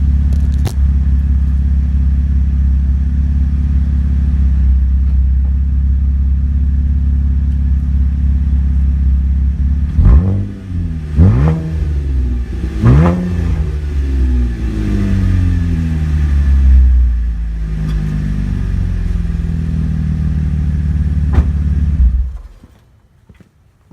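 Exhaust of a 2015 Chevrolet Impala LTZ, with muffler and catalytic converter deleted, a stock resonator and a Flowtech Purple Hornies glasspack, idling, then revved sharply three times about ten seconds in, with further revs falling back to idle. The engine cuts off near the end.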